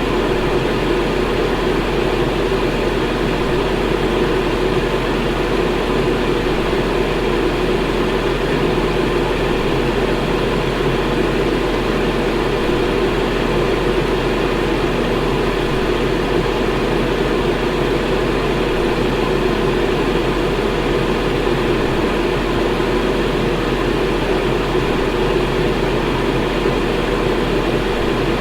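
Electric fan running steadily: an even whooshing of moving air with a low motor hum underneath.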